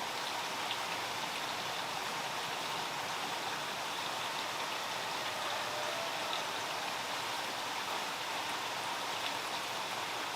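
Steady water noise, like rain falling or a stream running, with faint scattered ticks.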